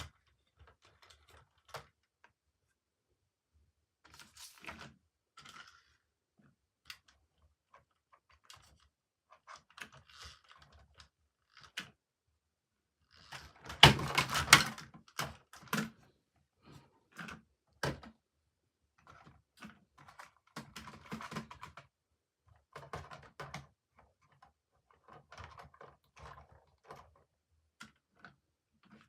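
Toy trains and their packaging being handled: scattered clicks, taps and rustles, with a louder burst of clattering about halfway through.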